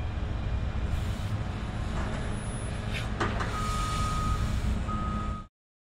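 A train running by with a steady low rumble and a few sharp clicks a little past halfway, then a thin steady high tone twice near the end, before the sound cuts off suddenly.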